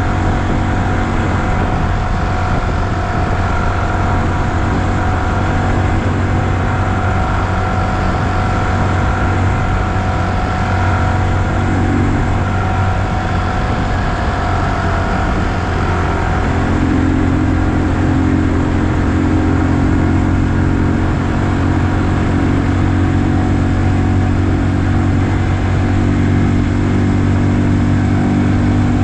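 Honda Super Cub C125's single-cylinder engine running steadily on the road, its note changing a little past halfway through.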